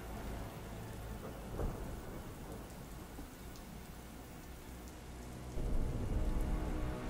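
Steady rain, with a low roll of thunder swelling about five and a half seconds in.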